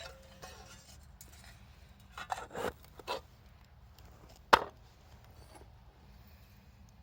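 Wood being handled: a few short rubbing scrapes about two to three seconds in, then one sharp knock about four and a half seconds in.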